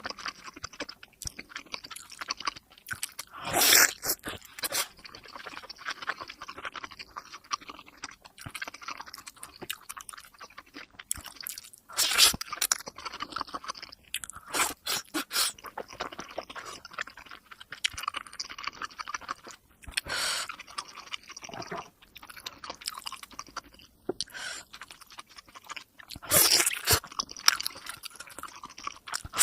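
Close-miked eating of momo dumplings: irregular wet chewing and biting clicks, played at double speed, with a few louder bursts scattered through.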